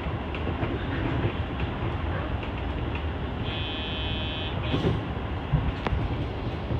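Sotetsu commuter train running, heard from inside: a steady low rumble of wheels on rail with occasional clicks over the track. A brief high steady tone sounds a little past halfway.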